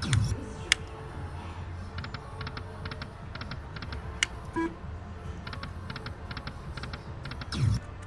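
Lightning Link slot machine spinning its reels: rows of quick, even electronic ticks, with a falling swoop near the start and again near the end as spins begin, and a couple of sharp clicks. Low casino hum and music run underneath.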